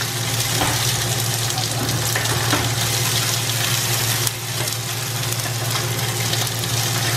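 Red bell pepper pieces sizzling in hot olive oil in a stainless steel frying pan, stirred and pushed around with a spatula, with a steady low hum underneath.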